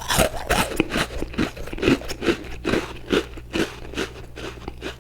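Crunchy Icee-flavoured sandwich cookie being chewed close to the microphone, with a steady chewing rhythm of about two to three crunches a second.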